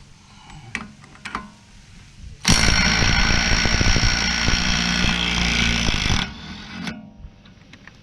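Impact wrench (rattle gun) on a 32 mm socket hammering for about four seconds on the hub-to-half-shaft bolt, which is held with Loctite, to break it loose. It starts a couple of seconds in after a few light clicks, then cuts out and trails off briefly.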